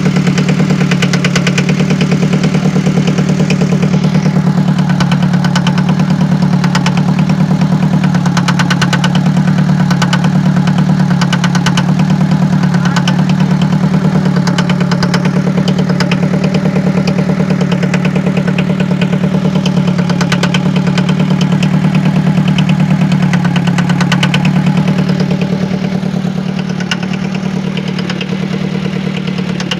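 Diesel forklift engine idling with a rapid, even clatter. This clatter is the engine noise problem under inspection. It gets slightly quieter near the end.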